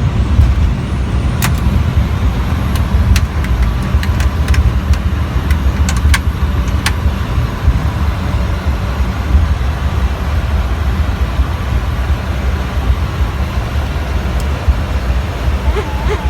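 Airbus A310 cockpit during the landing rollout: a loud, steady low rumble of engines and wheels on the runway, with a few sharp clicks and rattles in the first several seconds. A faint wavering tone starts near the end.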